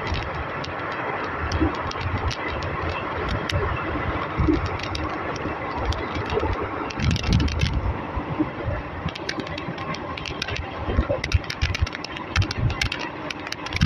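Passenger train coach running along the track, recorded on board: a steady rumble and rattle of wheels on rail. Clusters of sharp wheel clacks come about seven seconds in and again from about eleven seconds.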